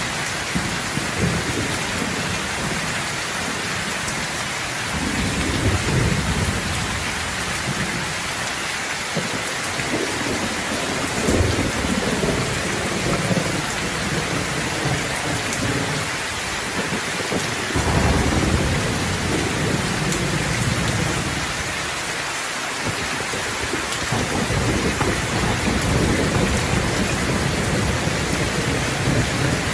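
Steady rain falling, with thunder rolling in low rumbles again and again; the strongest roll starts sharply a little past halfway.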